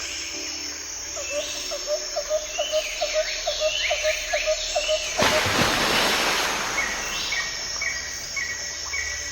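Several birds chirping and calling at dawn: a quick series of low chirps, about three a second, in the first half, and a steady run of higher repeated chirps later, over swooping calls. About five seconds in, a rush of noise lasts nearly two seconds.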